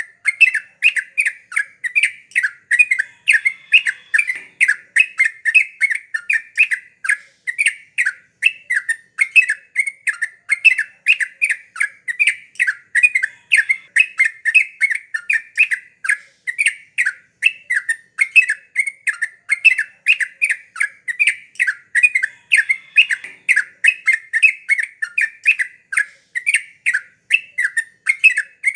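Yellow-vented bulbul (trucuk) singing on and on, in a fast, unbroken chatter of short bubbly notes, about three a second.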